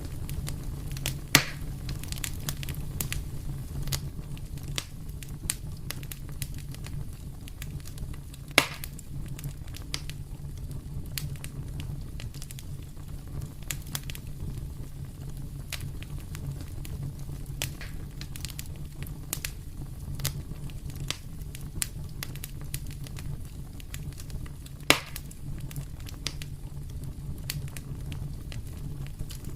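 Wood fire crackling in a fireplace, with a steady low rumble of the flames under scattered sharp clicks and three louder pops about a second in, near the nine-second mark and near the end.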